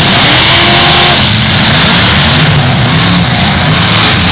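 Several eight-cylinder demolition derby cars revving hard at once, loud, their engine notes rising and falling as they spin and push.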